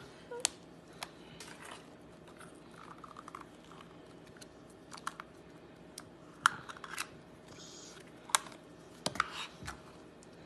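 Scattered light plastic clicks and rustling from hands working plastic Easter eggs packed with a bird seed mixture, with a few sharper snaps standing out.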